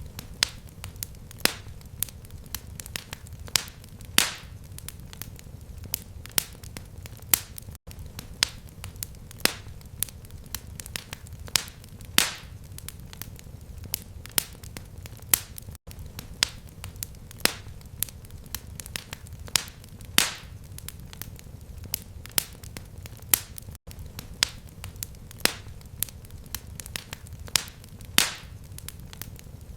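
Fireplace fire crackling: irregular sharp pops and snaps, a few much louder than the rest, over a steady low rumble of flame. The sound cuts out for an instant three times, about eight seconds apart.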